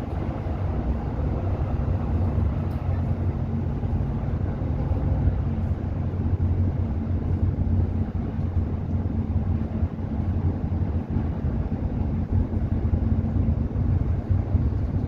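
Interior of a moving bus: a steady low engine drone and road rumble, heard from inside the passenger cabin while cruising, with no marked changes in speed.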